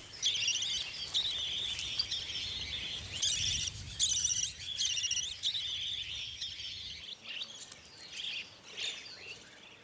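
Small birds chirping and twittering in quick, warbling notes, growing sparser and fainter in the last few seconds.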